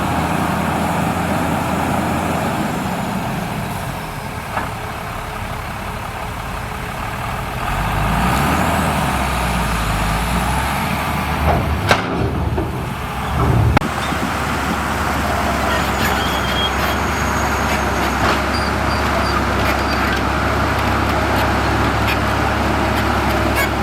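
Heavy diesel engine of earthmoving machinery running steadily. Its sound changes for a few seconds around the middle, where there is a sharp click and then a louder knock.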